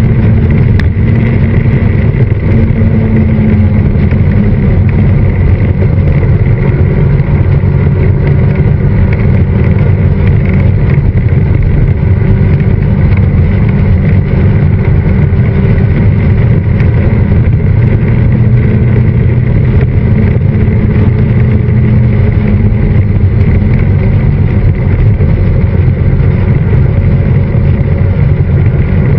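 Westfield Megablade's Honda Fireblade inline-four motorcycle engine running at a steady cruise, with wind and road noise rushing through the open cockpit.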